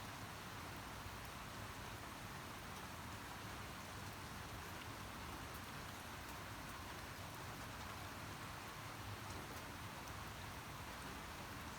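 Steady rain falling: an even hiss with faint scattered drop ticks and a low rumble underneath.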